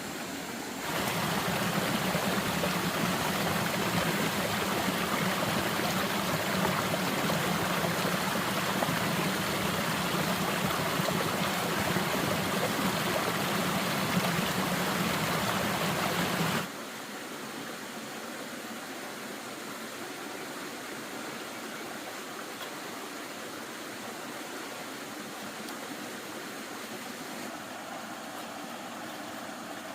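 Steady rushing water. It becomes louder about a second in, with a low hum beneath, then drops suddenly to a quieter rush about 17 seconds in.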